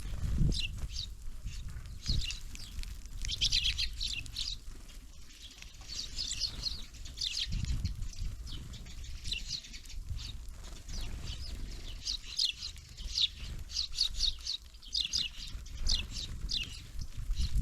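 Small songbirds at a winter feeder chirping: runs of short, high, quickly falling chirps, several a second, coming and going throughout. A low rumble rises now and then underneath, most strongly near the start and about halfway through.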